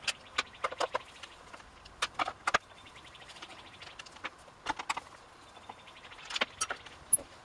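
Hand tools and plastic and metal parts of a chainsaw clicking and knocking at irregular intervals as the saw is taken apart, with a brief run of fast, light ticking a few seconds in.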